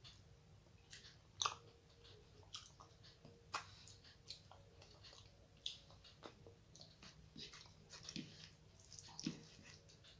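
Soft chewing and mouth noises of a person eating rice and curry by hand: short, irregular clicks and smacks.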